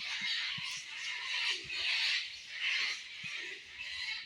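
A colony of bats and cockatoos calling: harsh, raspy screeches and squeals repeating every half second to a second, with a few faint knocks underneath.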